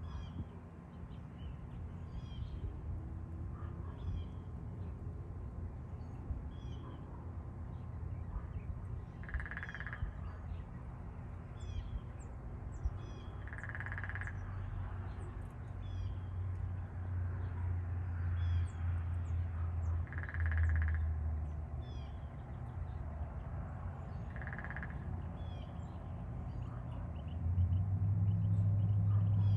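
Female downy woodpecker drumming: four short, rapid drum rolls a few seconds apart, each lasting under a second. Faint chirps of other birds and a steady low rumble run underneath, the rumble growing louder near the end.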